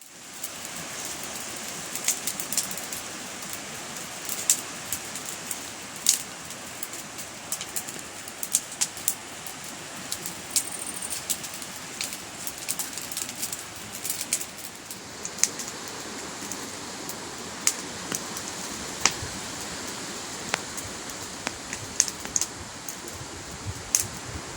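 Wood fire crackling, with many irregular sharp pops over a steady rushing noise.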